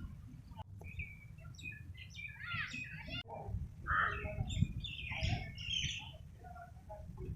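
Several birds chirping and calling, with many short overlapping chirps and warbles. A low rumble runs underneath.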